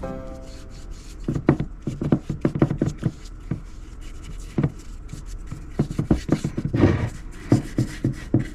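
Hands working on a small wooden piece: irregular taps, knocks and scrapes, some sharper than others, with a few close-spaced knocks near the end.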